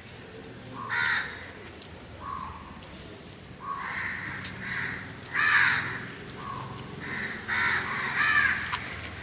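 Crows cawing repeatedly, a harsh call about every second, some overlapping.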